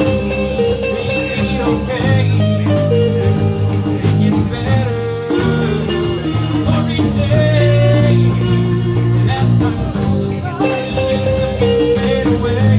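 Live blues band playing, with guitar over a strong low end and a steady beat.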